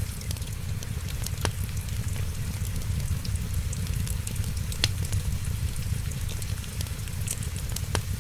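Wood fire crackling, with scattered faint ticks and a few sharper pops about every three seconds, over a steady low rumble.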